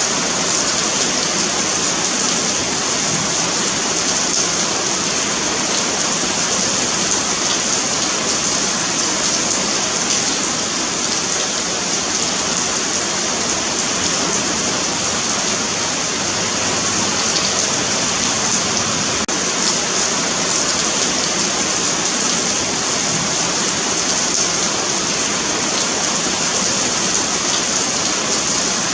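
Steady rain falling on a paved sidewalk, an even continuous hiss of drops.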